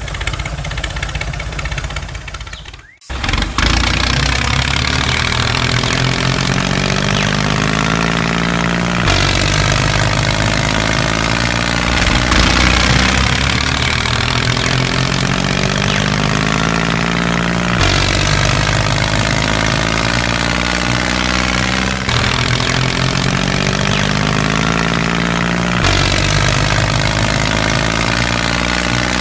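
Tractor engine sound that stops briefly and starts up again about three seconds in, then runs steadily. The pattern repeats every eight or nine seconds, like a looped clip.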